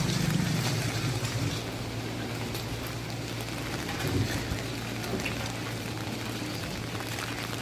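Steady typhoon rain falling, an even hiss of water, with a low steady hum underneath and a brief bump about four seconds in.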